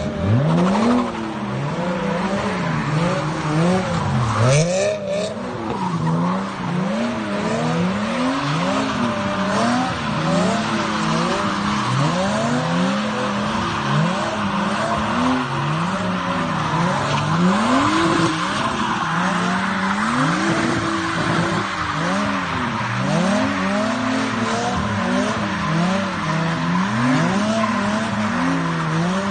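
A drift car's engine revving up and dropping back over and over, about once every second or two, with tyres squealing.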